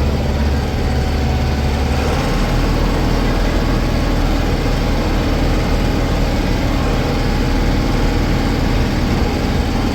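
Case 995 XL tractor's diesel engine running steadily while the tractor is driven, heard from the seat in the cab. The engine note drops a little about two seconds in.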